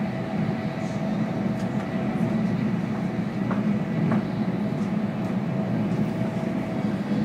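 Cabin noise inside a CRH2 high-speed train running along the line: a steady low rumble with a faint steady tone above it.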